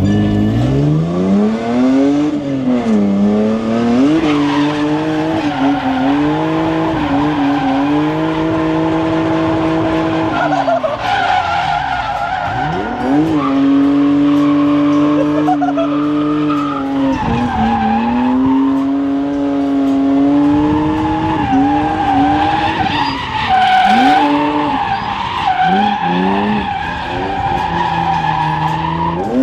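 Drift car engine revving hard, held at high revs for seconds at a time with repeated sharp drops and climbs, while the tyres squeal through the slide.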